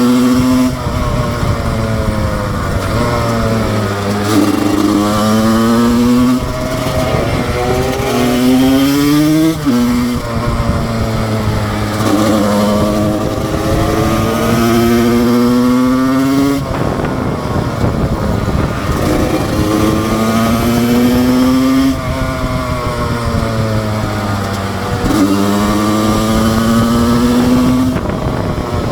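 2007 Husqvarna SM 125 two-stroke single-cylinder engine pulling hard: the revs climb and then fall away sharply several times, about every five or six seconds, with stretches where the pitch sinks as the bike slows.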